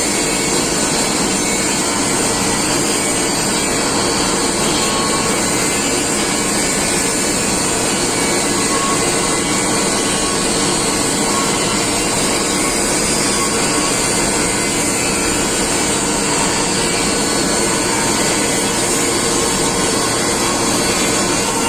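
Steady, loud machinery noise with several held tones, unchanging in level.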